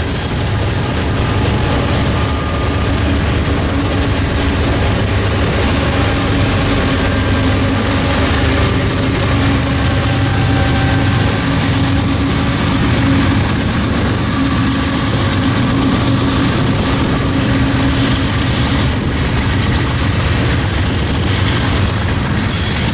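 BNSF freight train rolling past, a loud steady rumble of wheels on rail with a low hum underneath.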